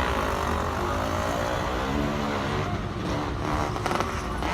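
Road traffic: motor vehicle engines running, a steady low rumble with no sudden events.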